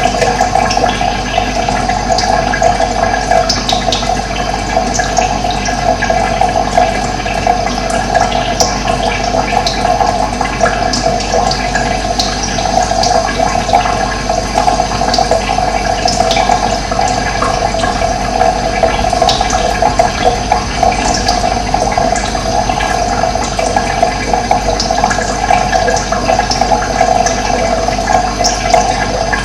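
Running water, a steady loud rushing, with brief high chirps of wild birds scattered over it.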